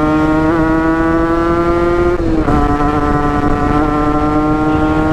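Yamaha RX-King 135cc two-stroke single-cylinder engine pulling hard at high revs under way. Its pitch creeps up for about two seconds, drops sharply once as on an upshift, then holds steady.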